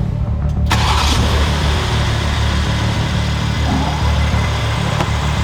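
The Alpina B4 Gran Coupe's 3.0-litre six-cylinder engine running steadily, with a broad rushing noise over it from about a second in.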